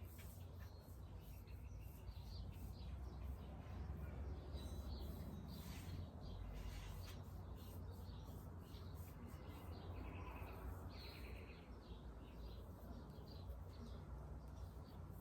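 Small birds chirping faintly and now and then over a low steady outdoor rumble.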